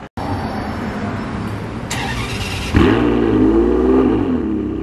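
Ferrari sports car engine: a steady low rumble, then about three seconds in a sudden sharp rise in revs that falls back to a fast, even idle.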